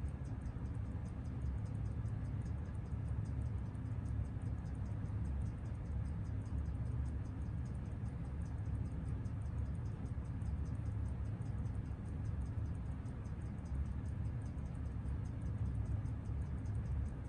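Seiko 6139 automatic chronograph movement ticking on a timegrapher: fast, evenly spaced ticks at its 21,600 beats an hour, over a steady low hum. The freshly restored movement is running with very steady amplitude.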